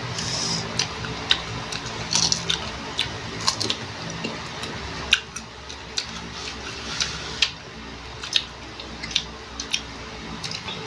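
Close-up chewing and crunching of crisp green Indian mango slices, with wet mouth clicks and squelches a few times a second, irregular.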